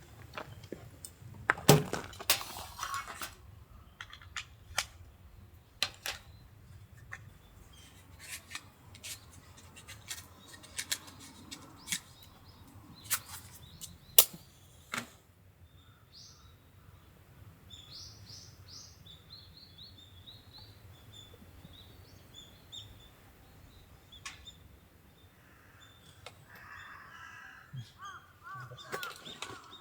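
Sharp clicks and knocks, some loud, through the first half. Then small birds chirping in short high notes, and a lower, harsher bird call near the end.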